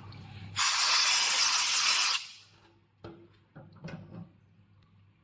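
A loud spray hiss from the CNC drilling machine, about a second and a half long, starting about half a second in and fading out; the machine's steady low hum stops as it begins. A few light clicks follow near the end.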